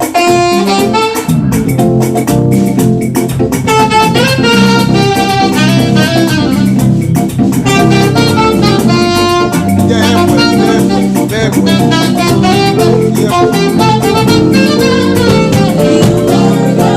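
Live gospel praise band playing: a saxophone carries the melody over drums and keyboard accompaniment.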